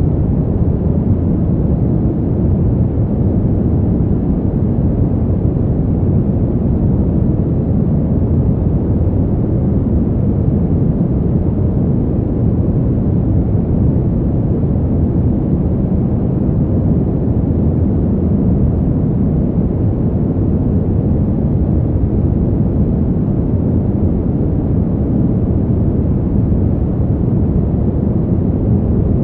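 Steady, deep rushing winter wind, a low even rumble without gusts or breaks, sold as relaxing white noise.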